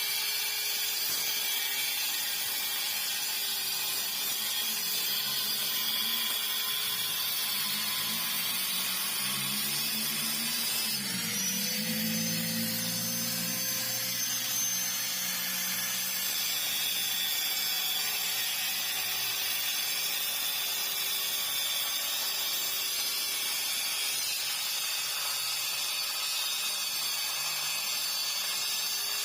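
Power tool running steadily. A deeper hum joins for a few seconds near the middle.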